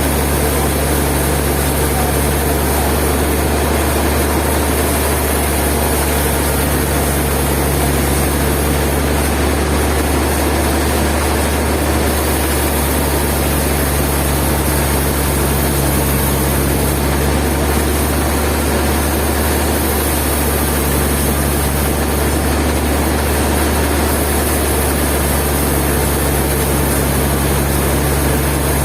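Sawmill machinery running steadily with a constant low engine drone and no change in load.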